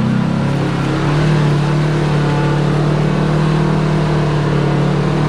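Side-by-side UTV engine running under load on a trail climb, settling into a steady drone about a second in.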